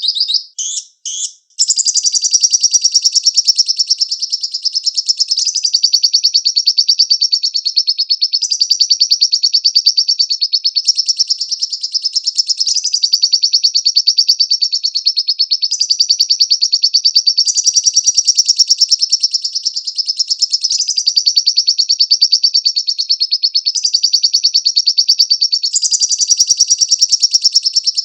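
Lovebird song: a few short sharp calls, then a long unbroken, rapid chattering trill that keeps shifting slightly in pitch every couple of seconds.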